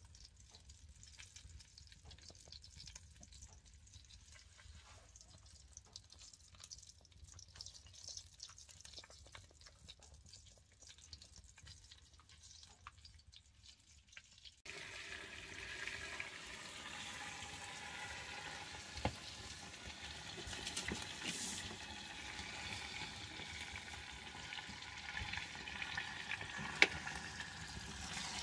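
Fat sizzling and crackling as it burns in a fireplace. It is faint at first, gets louder suddenly about halfway in, and has scattered ticks and one sharp crack near the end.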